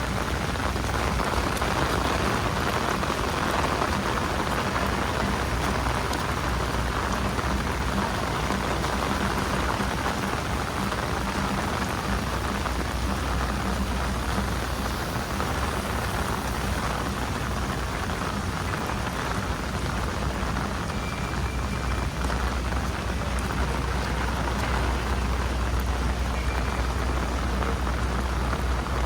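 Steady rain falling on a city street: a constant hiss, with a low rumble underneath.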